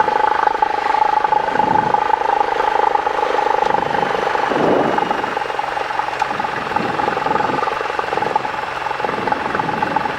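Cessna 172's four-cylinder piston engine and propeller running at low power during taxi: a steady drone with a constant tone.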